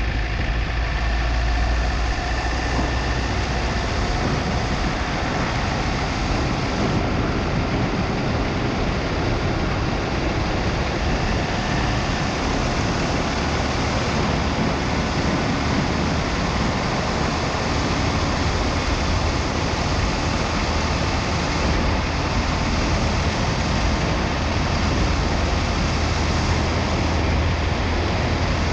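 Steady wind and road noise with a low rumble, picked up by a camera mounted on the outside of a moving car.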